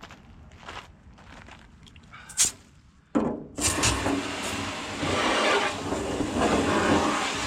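A few faint handling knocks and a sharp click. Then, about three seconds in, a loud, continuous rattle starts abruptly: steel chains and water being shaken inside a rusty steel fuel tank to knock the rust loose.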